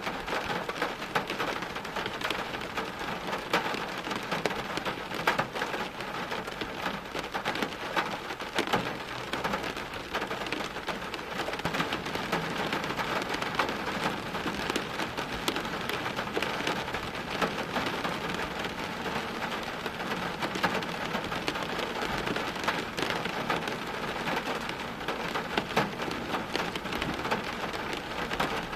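Steady heavy rain, a dense patter of drops on hard surfaces, with a low rumble of distant thunder underneath in the second half.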